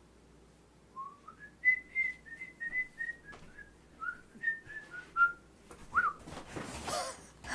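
A person whistling a short tune of about a dozen clear notes, some sliding up or down in pitch.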